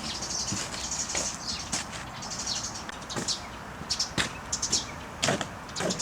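Small birds chirping in quick, irregular calls, with a few sharp clicks or knocks mixed in; no engine running.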